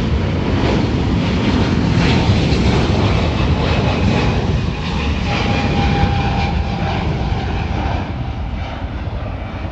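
United Airlines Boeing 777-200 twin-engine jet at takeoff power going past: a loud roar with a deep rumble and a thin whine. It is loudest a few seconds in and slowly fades toward the end.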